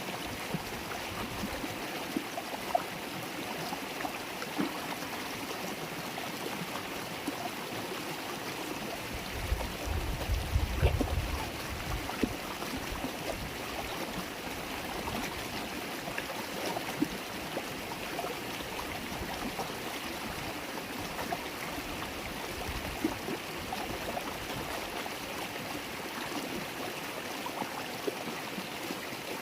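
River water babbling and trickling, a steady rushing with many small splashes. About ten seconds in, a low rumble lasts a couple of seconds.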